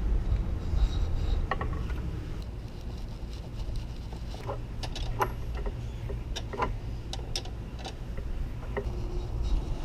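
Scattered light clicks and knocks of engine parts and tools being handled while the lower timing cover is refitted, over a steady low rumble.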